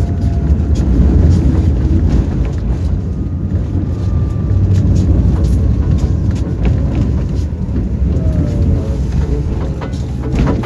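Tram running along the line, heard from inside the car: a loud low rumble of wheels on rails with scattered clicks and rattles.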